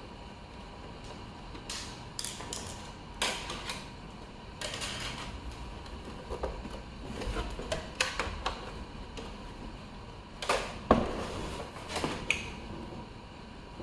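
Hands working on an electronic keyboard's plastic casing and parts: irregular clicks, taps and short scrapes, with the loudest knock about eleven seconds in.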